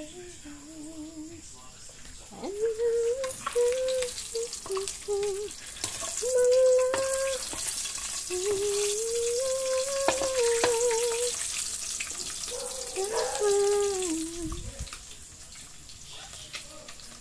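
Food sizzling in hot oil in a wok, with a voice singing a melody of long, wavering held notes over it.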